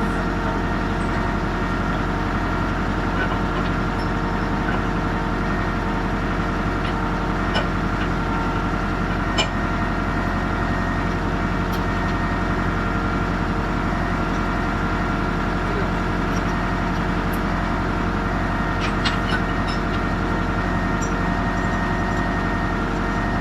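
Tractor engine running steadily at a constant speed, with a few short clicks over it.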